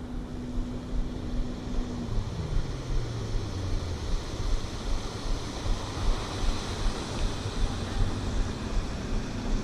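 Motorboat engine droning on the water, its pitch falling about two seconds in and settling lower, with a second engine tone coming in near the end, over a steady wash of wind and water noise.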